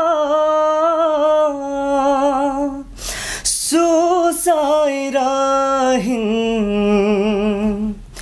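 A man singing a slow Nepali song unaccompanied, holding long notes with vibrato, with a breath about three seconds in.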